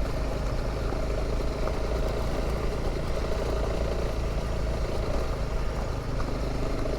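Honda CRF300 Rally's single-cylinder engine running steadily under way, with wind and road noise.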